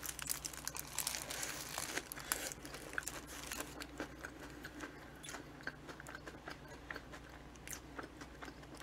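Close-miked chewing of a soft sandwich: small wet mouth clicks and light crunches, busier in the first few seconds and fainter toward the end.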